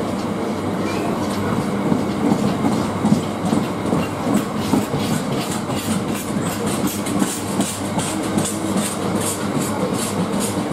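A freight train of covered bogie hopper wagons rolls past with a steady rumble. Its wheels click rhythmically over the rail joints, a few clicks a second, and the clicking grows more distinct a few seconds in.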